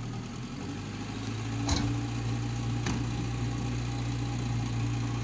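Zastava Yugo's small engine idling steadily while hitched to a tow bar, with two sharp clanks about a second apart.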